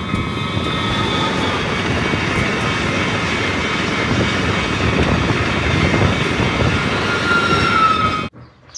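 Passenger train passing close by: a steady rumble and rush of wheels on rail with a high steady whine over it, cut off abruptly near the end.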